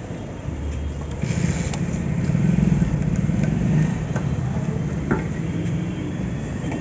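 Motorcycle engine running on the road, getting louder from about a second in and easing off after about four seconds.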